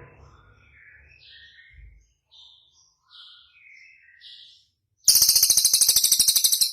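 Songbird song from a mixed cililin, canary and kapas tembak training recording: a string of short chirps and whistled notes, then about five seconds in a loud, very fast, high trill that stops abruptly.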